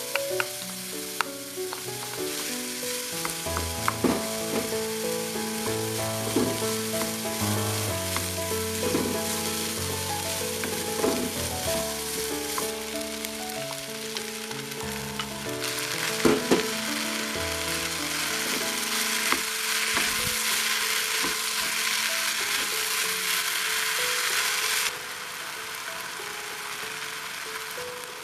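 Diced carrots and potatoes sizzling as they stir-fry in a stone-coated frying pan, with sharp clacks of bowl and utensil against the pan. The sizzle gets louder about halfway through, after more ingredients go in, and eases a few seconds before the end. Soft music plays under it.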